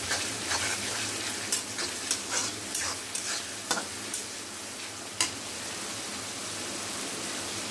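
Green peas, onion and tomato sizzling in oil in a metal kadhai while a metal spoon stirs them, scraping and clinking against the pan about nine times over the first five seconds; after that only the steady sizzle.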